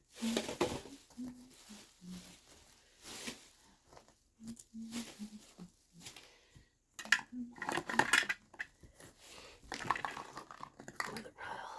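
Irregular clatter and clinks of hard household items being handled and set down, busier in the second half.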